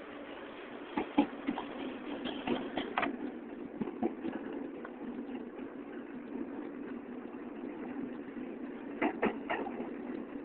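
Alstom R160A subway car running along the track: a steady rumble with sharp clicks and knocks about a second in, around three seconds in, and again about nine seconds in.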